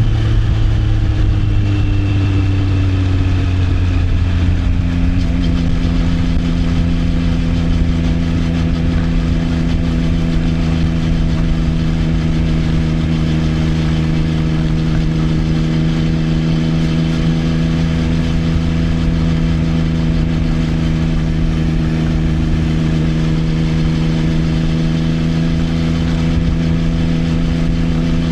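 Triumph Trident 660's inline-three engine through an Arrow exhaust, heard from the rider's position. The engine note eases down over the first few seconds, then holds steady as the bike cruises at a constant speed.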